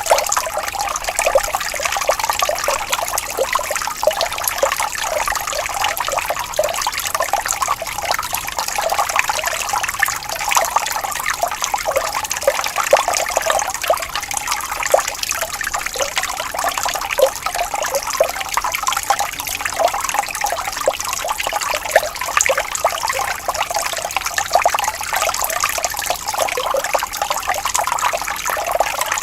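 Water flowing gently and trickling in a small stream, a steady bubbling with little variation.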